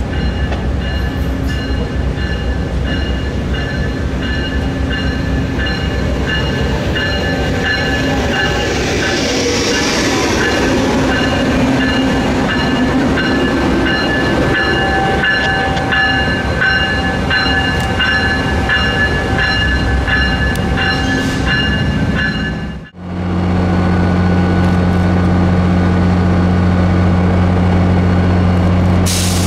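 A train running past at track side, with steady whining tones over its rumble and a quick run of rhythmic clicks of wheels over rail joints. After an abrupt cut about two-thirds of the way through, a steady low hum like a locomotive's engine idling takes over.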